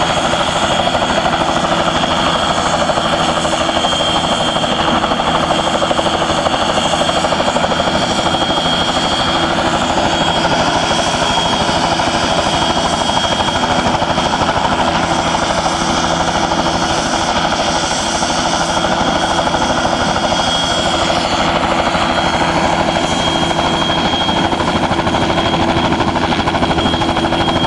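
Helicopter running at takeoff power just before liftoff: a loud, steady turbine whine over the rapid beating of the rotor blades, with rotor wash blowing hard on the microphone.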